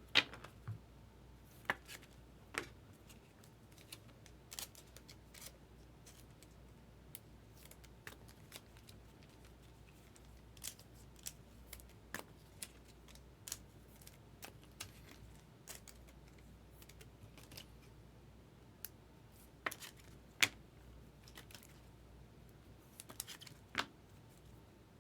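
Trading cards and packs being handled: scattered sharp clicks and snaps at irregular intervals, the loudest just after the start and again about 20 seconds in.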